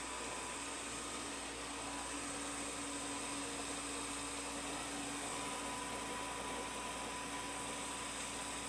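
LG R76GIM robot vacuum cleaner running steadily, a constant motor whirr with a thin high whine.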